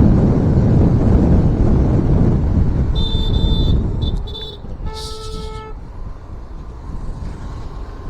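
Road noise and wind rumble from a moving car, then vehicle horns honking: one honk of nearly a second about three seconds in, a quick short toot, and another honk of under a second about five seconds in.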